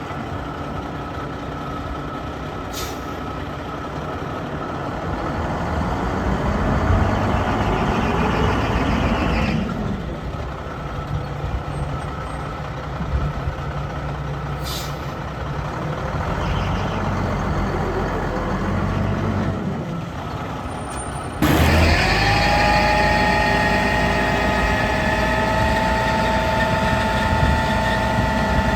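1998 Mack DM690S truck's EM7-300 diesel engine running and revving up twice, with two short air hisses. About three quarters of the way in, the sound jumps louder and a steady multi-tone whine sets in over the engine.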